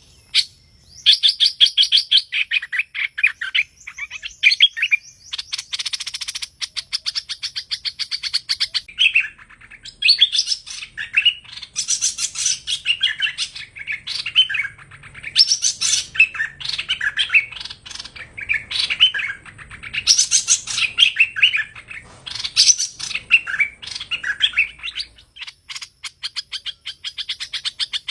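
Song of the bird called hoành hoạch in Vietnamese: phrases of fast, sharp chirping notes, each a second or two long with short pauses between, and one harsher, buzzier phrase about six seconds in.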